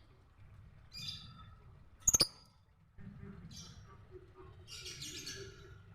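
Lovebird chirping and chattering in short high-pitched bursts, with a sharp, loud call about two seconds in and a longer chatter near the end.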